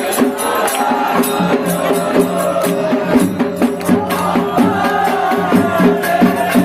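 Devotional aarti music: a quick, steady beat of hand percussion and jingles over sustained drone tones, with voices chanting.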